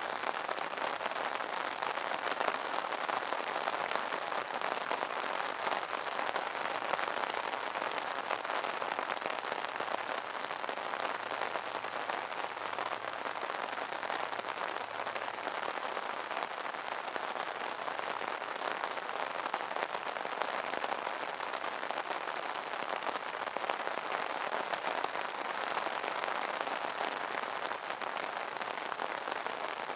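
Steady rain pattering on an umbrella's fabric canopy, a dense even patter of many small drops.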